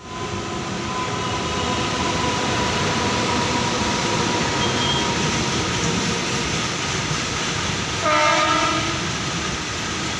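Train running with a steady rumble, and a brief horn blast about eight seconds in.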